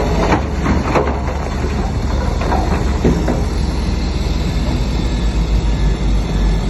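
Crawler bulldozer running under load, its diesel engine rumbling steadily while the steel tracks clank and squeal now and then.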